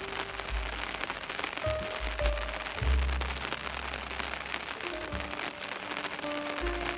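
Steady rain falling, with soft background music of slow, held notes and deep bass tones over it.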